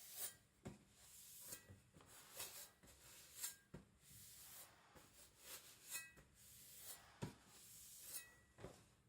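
Faint, irregular clicks and short rubbing sounds of a cleaver being handled and turned over, with no steady sharpening rhythm.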